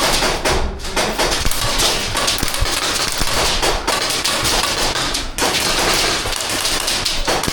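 Airsoft guns firing, with many sharp, irregular clicks and cracks as shots go off and BBs strike hard surfaces.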